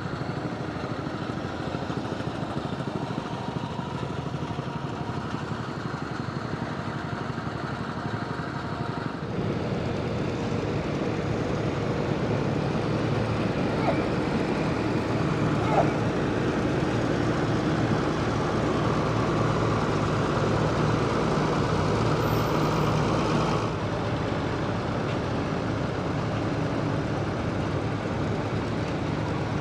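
Engines running steadily, louder from about nine seconds in and dropping back a little near twenty-four seconds.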